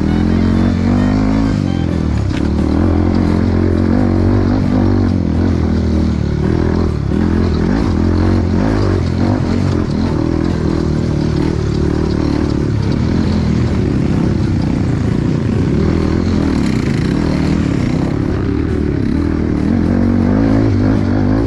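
Dirt bike engine running under way, its pitch rising and falling continually with the throttle.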